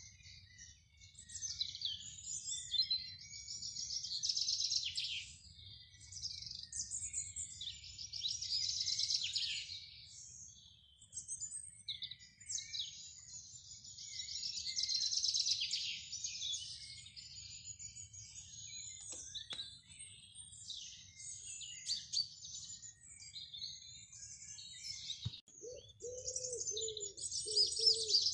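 Small garden songbirds singing in repeated phrases of rapid, high trills and twitters. From about 25 seconds in, a pigeon coos over and over.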